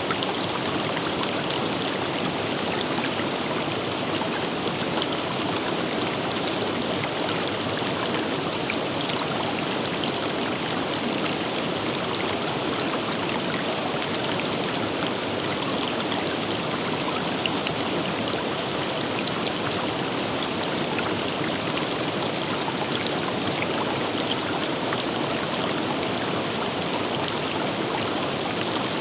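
Forest river flowing over rocks: a steady rush of running water with small splashes and trickles, unchanging throughout.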